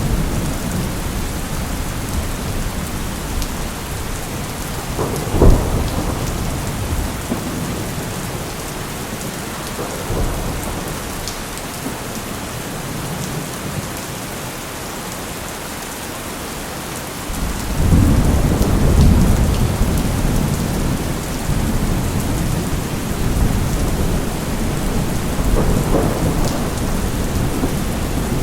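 Steady rain falling with thunder: a sharp crack of thunder about five seconds in, then a long low rumble of thunder rolling in past the middle.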